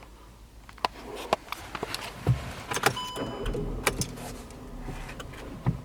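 Clicks and knocks of a car's interior controls being handled in the cabin, with a short electronic beep about three seconds in.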